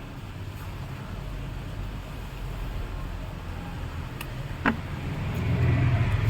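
Mahindra Xylo's diesel engine idling steadily, now running after its chewed camshaft-sensor and coolant-temperature wiring was repaired. A single sharp click about two-thirds of the way through, and the idle hum grows a little louder near the end.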